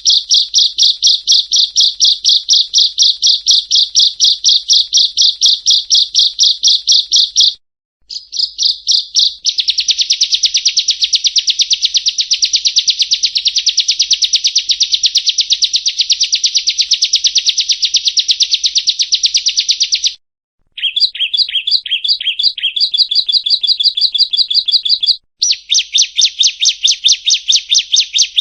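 Ciblek kristal (bar-winged prinia) singing: long runs of very fast, evenly repeated high-pitched chipping notes. The runs are broken by brief pauses about 8, 20 and 25 seconds in, and the phrase changes after each pause.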